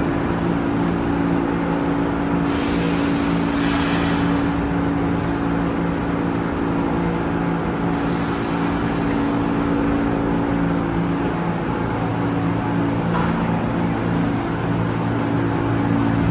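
New York City subway train standing in the station with a steady electrical and mechanical hum, broken twice by bursts of hissing air from its pneumatic system.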